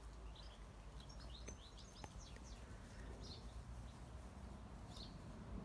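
Faint birdsong: clusters of short, high chirps from small birds, over a steady low rumble.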